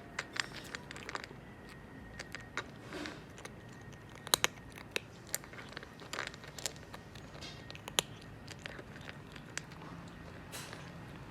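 A calico cat eating, with irregular sharp crunches and bites as it chews its food; the loudest crunches come about four seconds in and again near eight seconds.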